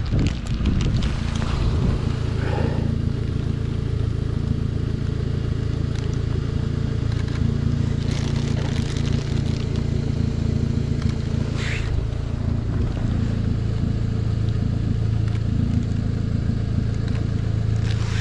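Car engine running steadily, a low, even hum.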